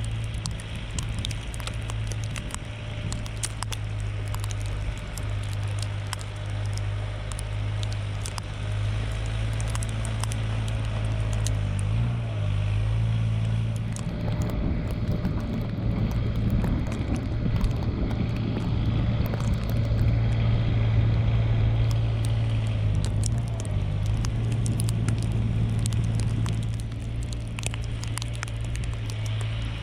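Mahindra eMax 20S compact tractor's small diesel engine running steadily under load. A rougher, louder layer of noise joins it from about halfway and fades near the end.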